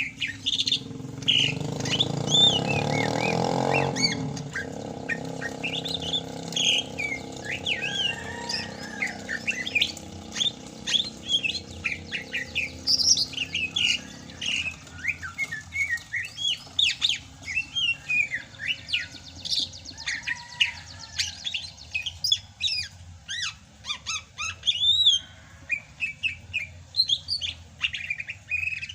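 Sumatran cucak hijau (green leafbird) singing vigorously: a continuous, fast stream of varied chirps, slurred whistles and squawky notes. A low steady hum underlies the first half, loudest in the first few seconds and then fading away.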